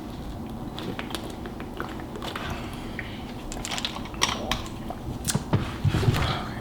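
Close-miked chewing of Hot Cheetos noodles, with scattered sharp mouth clicks that grow busier in the second half.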